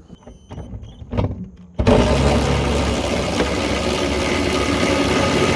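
A handheld power tool cutting through metal exhaust hangers: a loud, even cutting noise that starts suddenly about two seconds in and runs for about four seconds. A few light knocks come before it.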